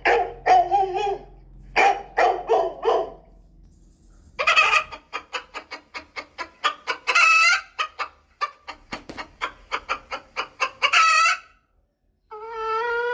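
Chickens clucking, with quick runs of short clucks and three longer, drawn-out calls.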